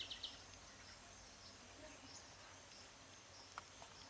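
Faint outdoor background with scattered high chirps of small birds. A fast chattering run of chirps ends just as it begins, and a single short tick comes about three and a half seconds in.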